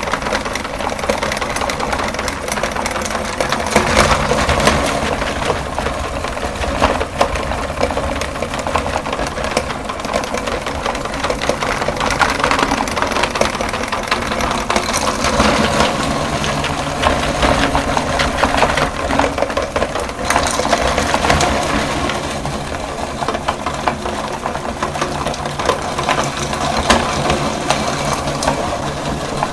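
Electric meat grinder running steadily, its motor humming while the auger crushes sticks of chalk with a continuous gritty crackling.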